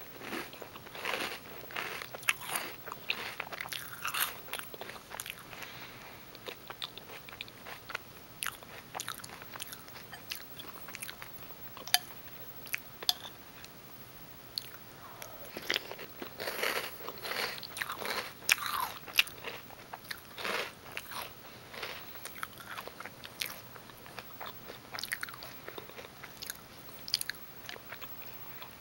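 Someone chewing a mouthful of Reese's Peanut Butter Puffs cereal: irregular crunches and crackles with a few sharp snaps. The crunching comes in clusters, heaviest in the first few seconds and again a little past halfway.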